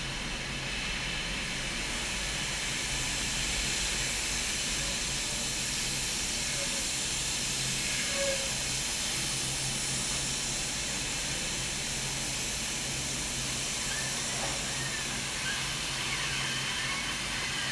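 Car-factory floor noise: a steady hiss over a low machine hum, with a few faint short squeaks late on.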